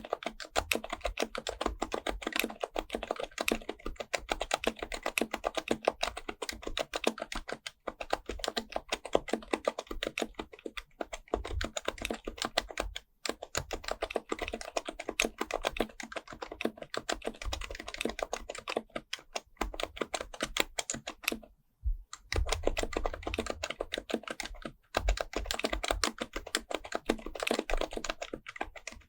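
Fast, continuous typing on an HHKB Pro Type-S keyboard's silenced Topre electrostatic capacitive keys: a dense run of soft keystrokes. It breaks off briefly a little after 13 seconds in and again for about half a second near 22 seconds in.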